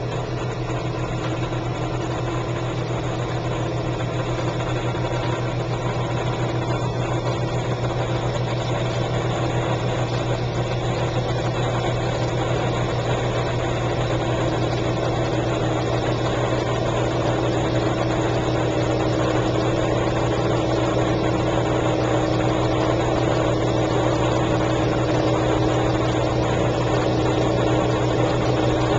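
1957 James portable dishwasher running: a steady low motor hum with water churning and spraying inside the tub, growing slightly louder.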